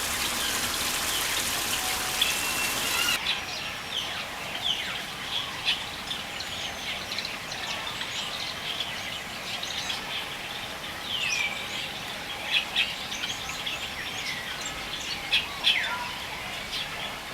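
Many birds chirping and calling together: short chirps, whistles and curving sweeping calls overlapping. A steady rain-like hiss under them cuts off suddenly about three seconds in.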